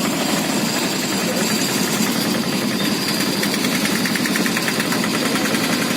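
A motor-vehicle engine running steadily with a rough, rapid knocking pulse, with a thin steady high whine on top.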